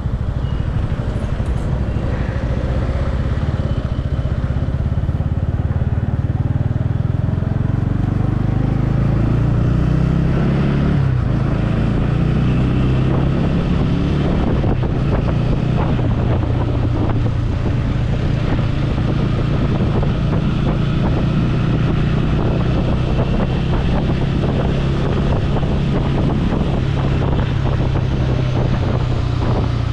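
Motorcycle engine running under way, rising in pitch as the bike accelerates during the first ten seconds or so, then holding a steady pitch while cruising, with wind on the helmet microphone.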